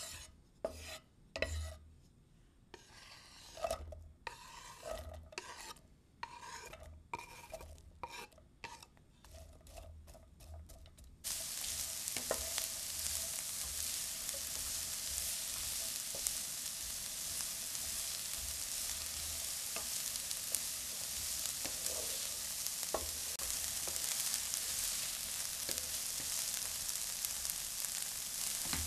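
A run of short, separate scrapes and taps of kitchen work. About eleven seconds in, they give way abruptly to the steady sizzle of food frying in a pan.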